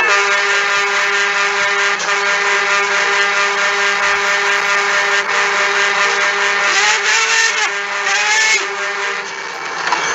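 Vehicle engine held at high, steady revs, its pitch wavering briefly about seven to eight and a half seconds in and easing off near the end.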